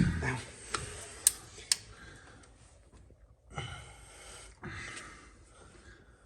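Hand tools on an engine: a knock, then three sharp metallic clicks in the first two seconds, followed later by two longer breathy sounds, like a man breathing hard as he works.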